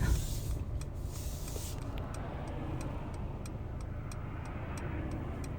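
Car running and moving slowly, heard from inside the cabin: a steady low rumble of engine and tyres with a rapid, even ticking, and a hiss in the first couple of seconds.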